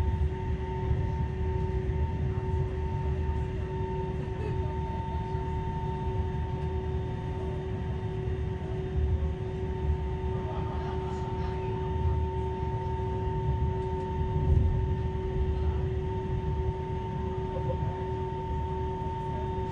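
Cabin sound of a moving Appenzeller Bahnen narrow-gauge passenger train: a steady low rumble of wheels on the track with two constant humming tones from the drive.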